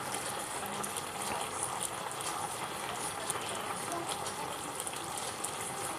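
Pan of risotto simmering on the hob: a steady soft bubbling hiss with small scattered pops.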